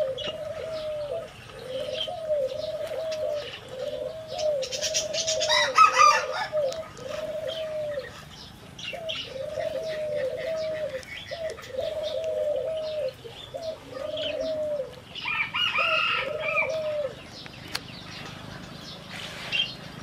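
A bird calling a long run of low, arched hooting coos, about two a second in short groups, which stop a few seconds before the end. Other birds give higher chirping calls over it, loudest about six seconds in and again near sixteen seconds.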